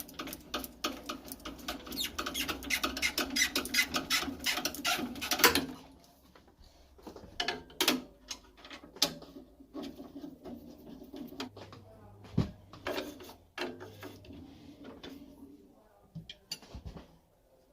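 A rapid, dense run of clicking and scraping for about five and a half seconds, then scattered single clicks and knocks: hands and tools working on boiler parts.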